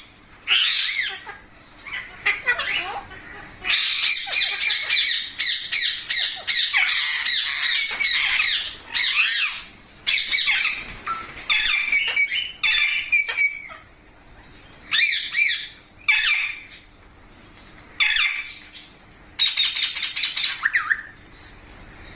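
Rose-ringed parakeets (Indian ringneck parrots) calling loudly in harsh, high-pitched squawks. A near-continuous run of rapid calls from about four seconds in gives way to shorter separate bursts near the end.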